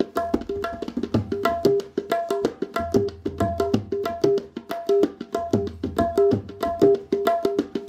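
Background music of tabla drumming: a fast, steady rhythm of sharp strokes with ringing pitched tones and deep bass-drum beats.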